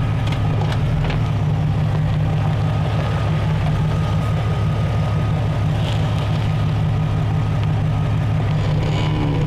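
Jeep Cherokee engine running steadily at low revs as the vehicle crawls slowly, its front tire climbing onto a boulder.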